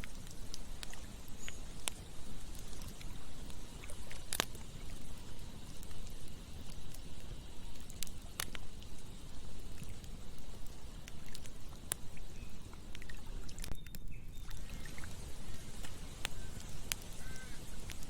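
Campfire burning: a steady low rushing noise with a sharp crackling pop from the burning wood every few seconds.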